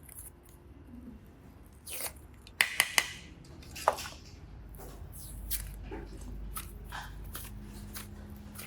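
Hands working craft materials at close range: three sharp clicks in quick succession a little before the middle and another about a second later, with soft rustling and squishing handling in between.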